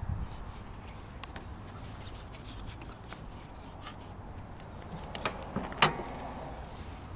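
Small clicks and knocks from handling a 2015 Ram 2500 pickup while getting its hood open, with one sharp metal latch clunk near the end, just after a smaller knock.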